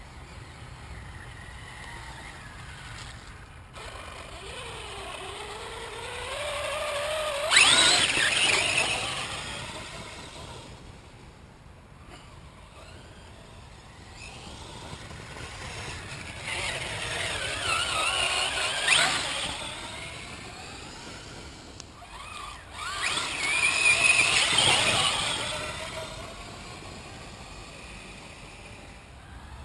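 Electric HPI Savage Flux RC monster truck's brushless motor whining up and down in pitch as it is throttled, with three louder surges of acceleration: about a third of the way in, past the middle, and near the end.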